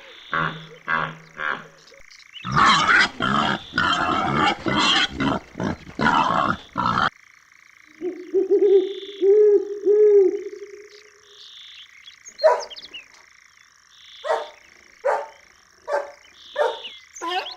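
Recorded animal calls from several different animals, one after another. First comes a run of loud, rough calls, about seven in quick succession. Then three short pitched calls, and then a string of short, sharp calls spaced under a second apart.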